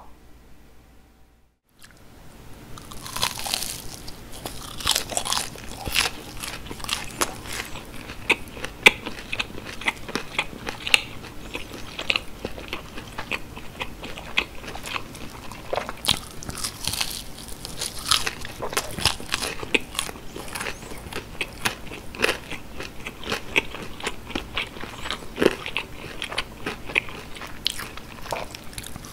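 Close-miked biting and chewing of breaded fried cheese sticks: crisp crunches of the crumb coating, with louder bites every few seconds, over steady chewing. It starts about two seconds in, after a short near-silence.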